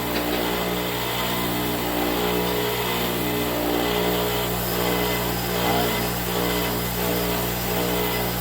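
Electric grinder running steadily for spark-testing pieces of smelted bloom iron, its motor a constant even hum with a grinding hiss over it.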